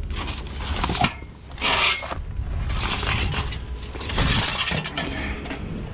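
Scrap and junk being handled and shifted: irregular scraping and clattering, with a sharp knock about a second in.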